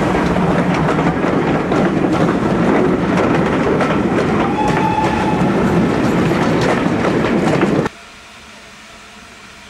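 Passenger coaches of a steam-hauled train rolling past close by, their wheels clattering over the rail joints, with a brief steady tone about halfway through. Near the end the sound cuts abruptly to a much quieter steady background.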